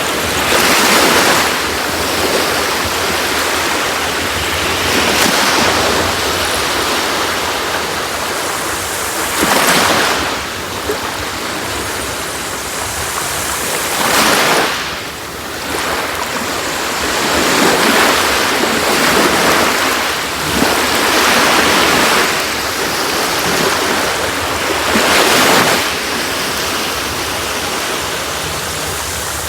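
Sea waves breaking and washing up a beach, one surge every four seconds or so, with a steady rush of surf between them.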